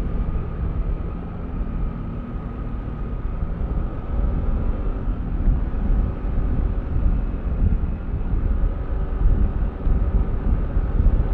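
Yamaha Aerox V3 scooter on the move, its engine running steadily under a heavy low rumble of riding noise. The sound eases off about a second in and builds again from about four seconds.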